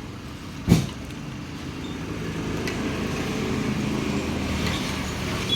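Truck engine running steadily, with one sharp thump about three-quarters of a second in.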